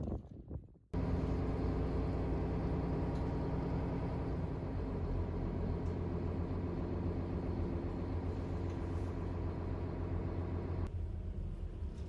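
Steady low rumble of a road vehicle running, coming in abruptly about a second in and changing in tone near the end.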